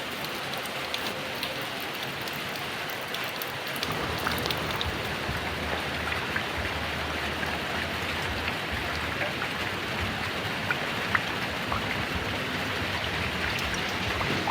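Heavy rain falling steadily, with many individual drops ticking on a hard surface. A deeper low rumble fills in beneath it from about four seconds in.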